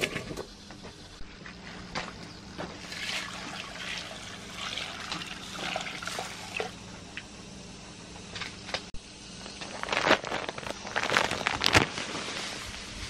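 Water splashing and trickling, broken by scattered small knocks and clicks, with a busier, louder stretch of splashing near the end.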